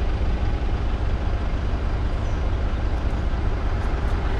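Nissan Frontier pickup truck running with a steady low rumble.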